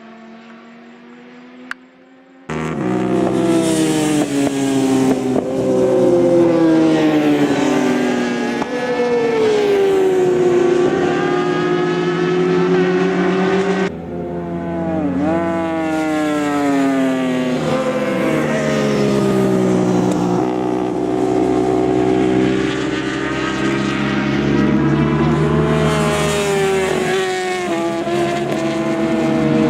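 Racing motorcycles at speed on a track: several engines at once, their pitch repeatedly rising and dropping through gear changes. It is faint for the first couple of seconds, then jumps to loud about two and a half seconds in.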